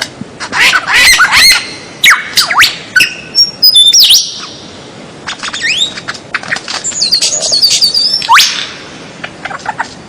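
Songbird singing a loud, varied song of sharp up-and-down whistled slurs and quick runs of short notes, with a long upward-sweeping whistle about eight seconds in.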